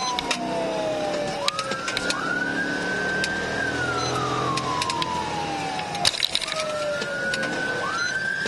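Police sirens wailing during a high-speed pursuit: two tones out of step, each rising quickly and then falling slowly over a few seconds, over engine and road noise. There are a few sharp knocks, the loudest about six seconds in.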